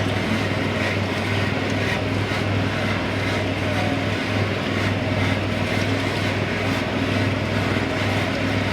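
Boat engine running steadily at low revs, an even low hum with no change in pitch.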